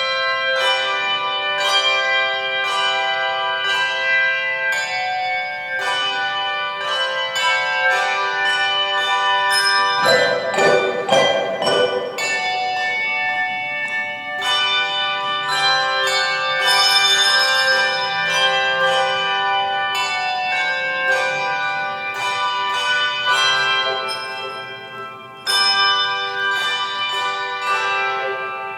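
A set of tuned bells, in the manner of a handbell choir, playing a piece of music in ringing chords. Notes are struck and left to ring. There is a dense flurry of strikes about a third of the way in, and the sound thins out before a fresh chord rings near the end.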